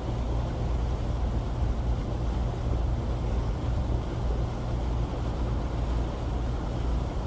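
Steady low drone of a motor cruiser's engine under way, with a haze of wind and water noise.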